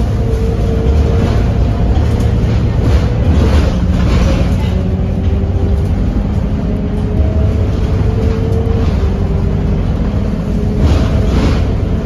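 Scania K230UB city bus's diesel engine running under way: a heavy low drone with a fainter whine that rises and falls in pitch as the bus changes speed, and a few short hisses.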